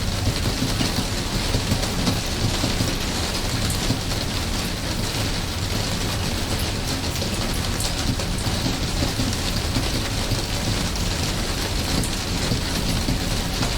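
Steady rain falling, with fine scattered drop ticks over an even hiss and a constant low rumble underneath.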